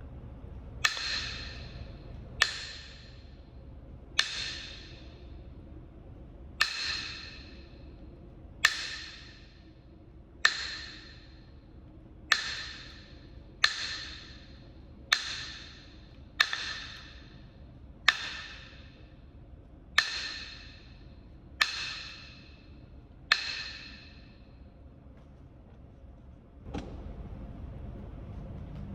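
Knapping strikes on Kentucky hornstone, a chert: about fourteen sharp, ringing clicks, one every one and a half to two seconds, followed near the end by a single duller knock.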